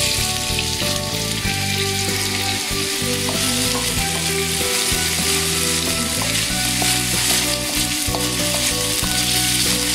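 Smoked chicken strips frying in a hot steel wok: a steady, dense sizzle. A slotted plastic spatula stirs and scrapes them across the pan, making a few short knocks.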